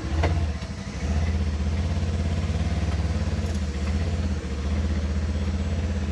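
A vehicle engine running steadily with an even low pulse while it tows a dead golf cart, with a single sharp knock about a quarter second in.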